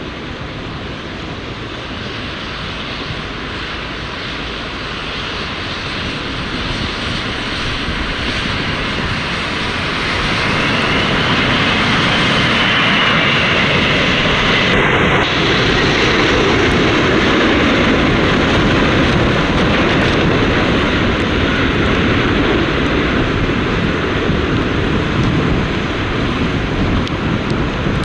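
Jet airliner passing on landing approach: engine noise swells about ten seconds in and stays loud, with a high whine that rises and then bends down as the aircraft goes by.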